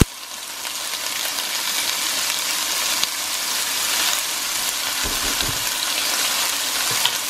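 Sliced bell peppers and onions sizzling steadily in hot oil in a stainless steel pot as they sauté, with a sharp click at the very start.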